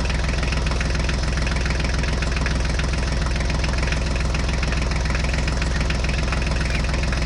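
Diesel tractor engine sound running steadily, with an even, fast chugging.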